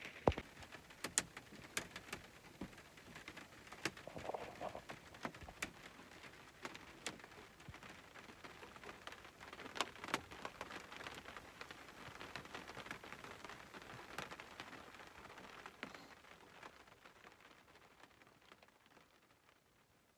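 Heavy rain falling on a truck camper, heard from inside: a steady patter with sharp single taps every second or so, fading away over the last few seconds.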